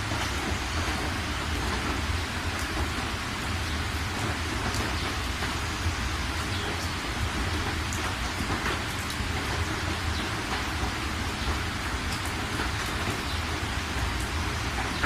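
Steady heavy rain falling on surfaces, with a continuous low rumble underneath and scattered drop ticks.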